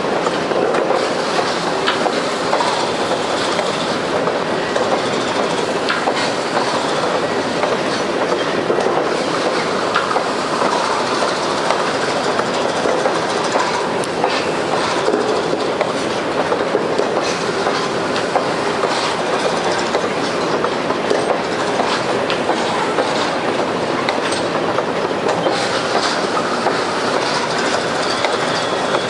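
Freight train of container wagons rolling past steadily, its wheels clicking and rattling over the rail joints.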